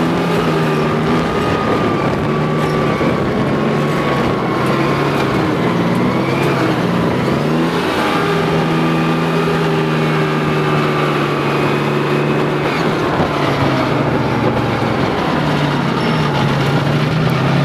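Heavy tracked vehicle's engine running steadily under load, dipping in pitch about six seconds in and picking back up about two seconds later as it changes speed.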